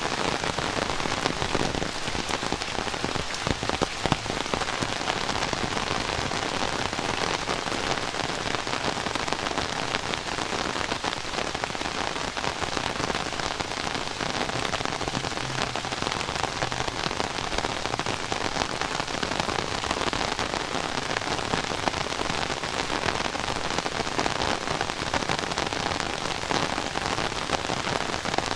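Heavy rain falling steadily, a dense even patter of drops striking surfaces.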